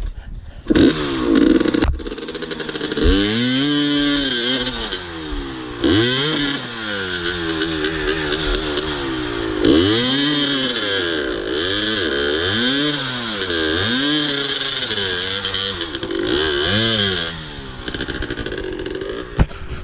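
Two-stroke dirt bike engine revving up and dropping off again and again, about once a second, as the rider blips the throttle working up a steep, technical climb.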